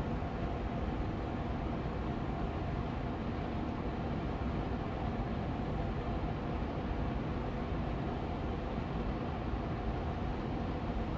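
Air purifier fan running steadily on medium speed: an even whooshing hum, strongest low down, with a faint steady tone in it.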